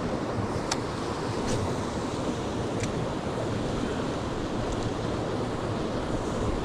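Steady rush of a fast-flowing mountain stream, with a few faint sharp clicks in the first three seconds.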